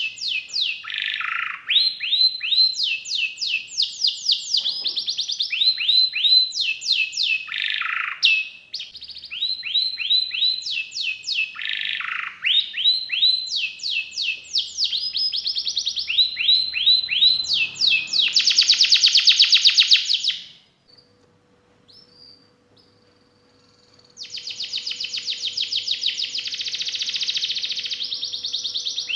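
Domestic canary singing: phrases of rapid, repeated down-sweeping notes running into fast rolling trills. There is a pause of about three seconds about two-thirds of the way through, then a long, even trill.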